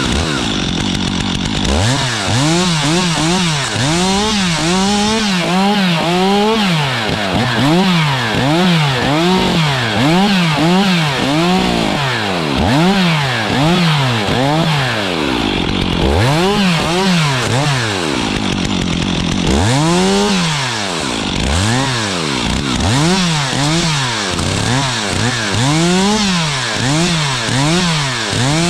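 Stihl chainsaw cutting, its engine revved up and down over and over, about one and a half times a second, with a short steadier stretch in the middle, as when lopping limbs and brush off dead spruce.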